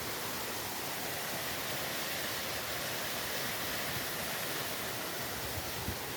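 Steady, even rushing of flowing water from a creek, with a couple of soft low thumps near the end.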